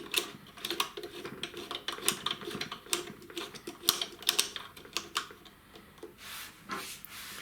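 Flux-core welder's wire-feed mechanism being handled: a dense, irregular run of small plastic and metal clicks and rattles as the wire and drive-roller parts are fitted by hand.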